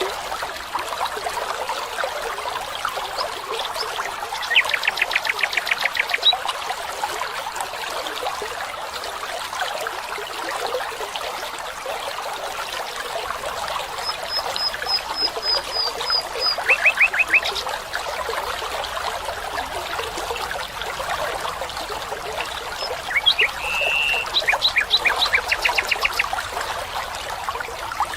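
A stream trickling steadily, with birds calling over it: a fast trill about five seconds in, a run of quick high notes near the middle, and more trills near the end.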